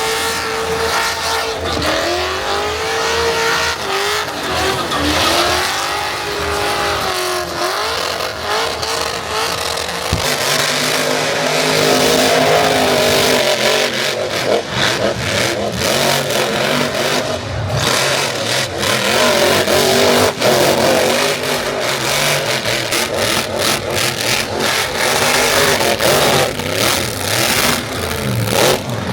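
High-performance car engines revving, the pitch swinging up and down repeatedly over the first several seconds, then held high and steady with a dense rush of noise.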